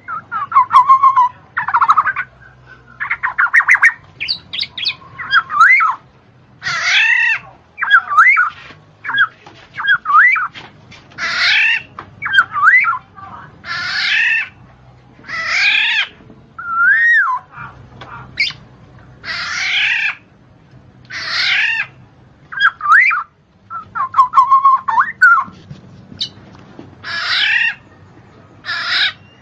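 A bird calling over and over: loud squawks and whistled notes that slide up and down, one call every second or two.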